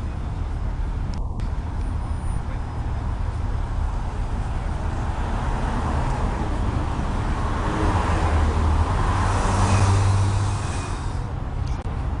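Road traffic noise with a steady low rumble; a vehicle passes by, growing louder to a peak about nine to ten seconds in, then fading.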